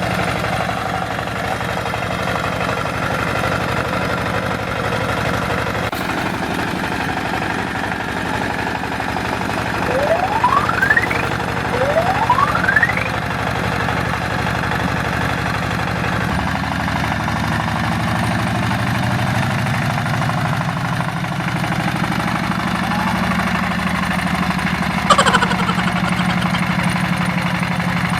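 Small motor running with a steady hum that shifts in tone about halfway through. Two quick rising whistle-like glides sound about ten and twelve seconds in.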